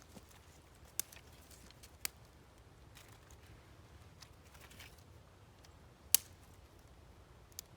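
A few sharp, irregularly spaced clicks or snaps: one about a second in, one about two seconds in, the loudest about six seconds in and a small one near the end, over a faint low hum.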